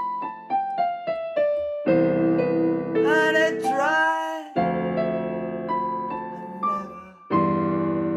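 Piano or electric keyboard music: a falling run of single notes, then held chords, with a voice singing briefly a few seconds in.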